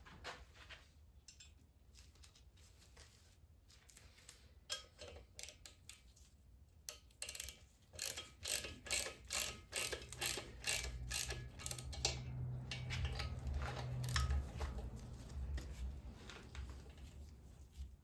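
Ratchet wrench clicking in quick runs as cylinder-head nuts are run down onto the studs of a VW Beetle's air-cooled engine, with a low hum for a few seconds midway.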